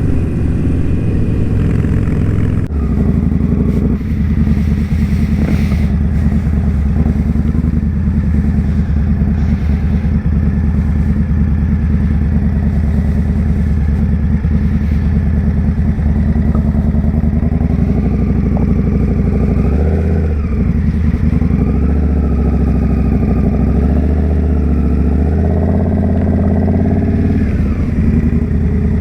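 Indian Scout Bobber's V-twin engine running steadily under way, with the engine note shifting a little a few times in the second half.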